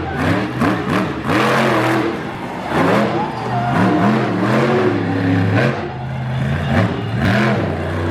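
Monster truck engine revving hard, its pitch climbing and dropping over and over as the throttle is worked.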